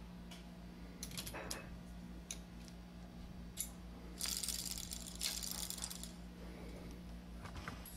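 Light metallic clicks and rattles of pliers working the chain guard on a Columbia automatic drywall taper, with a denser stretch of scraping about four to six seconds in. A low steady hum runs underneath.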